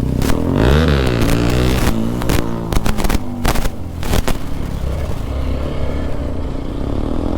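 Bajaj Pulsar 220F single-cylinder engine running just after a kick start: revved once about a second in, the pitch rising and falling back, with sharp clicks and knocks over the first few seconds, then settling to a steady idle.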